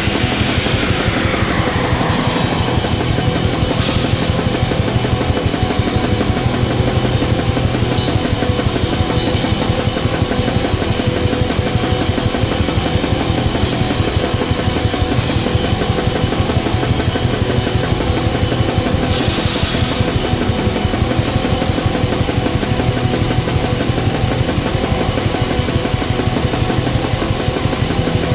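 Raw black metal: heavily distorted guitars over fast, dense drumming, forming one loud, unbroken wall of sound.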